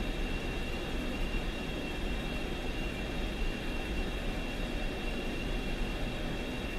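1942 South Bend lathe running steadily: an even mechanical hum with a thin, steady high whine over it.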